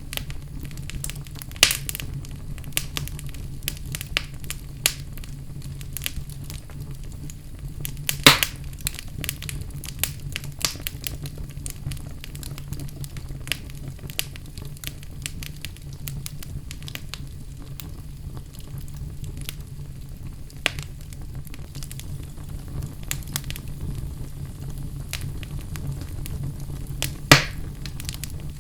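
Wood fire burning in a fireplace: a steady low rumble with scattered sharp crackles and pops, two of them louder, one about eight seconds in and one near the end.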